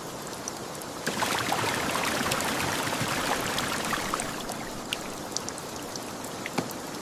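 Steady rain with scattered drops tapping close by; it grows heavier about a second in and eases off somewhat after about four seconds.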